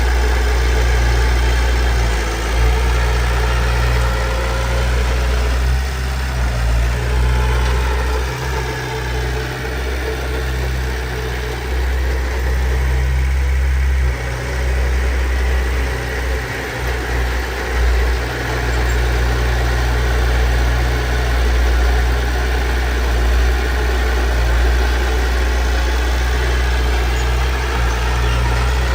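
Heavy diesel engine of earthmoving machinery running with a deep, steady rumble that wavers and dips for a stretch in the middle before steadying again.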